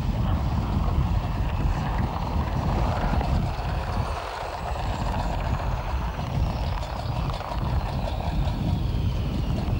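Panavia Tornado's twin RB199 jet engines running as the jet comes in, a high whine falling slowly in pitch over a heavy rumble, with wind buffeting the microphone.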